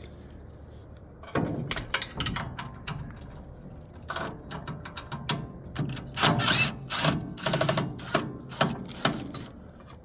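Irregular metallic clicking, knocking and scraping of hand tools working a bolt on a wood chipper's housing, starting after about a second and growing louder and busier in the second half.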